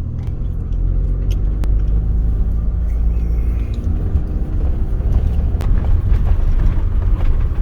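Motor vehicle driving: a steady low engine and road rumble, with a few light clicks over it.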